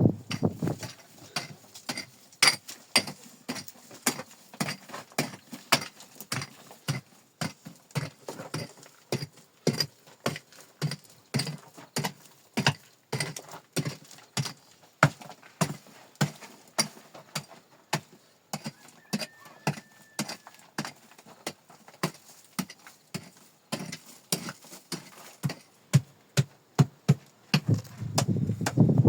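A long run of sharp, hard clicks and knocks, irregular and about two to four a second.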